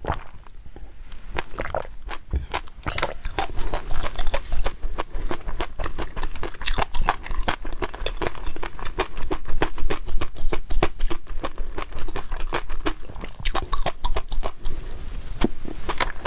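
Close-miked chewing and mouth sounds of someone eating: a rapid, uneven run of sharp wet clicks and crunches.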